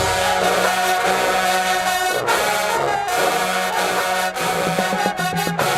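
HBCU marching band's brass section playing long held chords, the notes changing every second or so over a steady low line.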